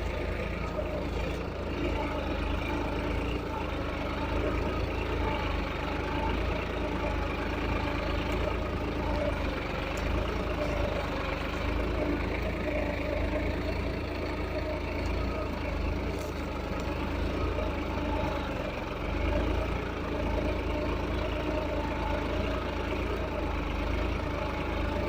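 Solis tractor's diesel engine running steadily at an even speed.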